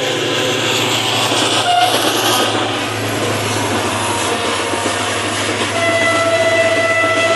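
A passenger train rolling past a level crossing, its coaches rumbling and clattering by, heard from a truck cab over a steady low engine hum. A horn sounds briefly about two seconds in, then is held for over a second near the end.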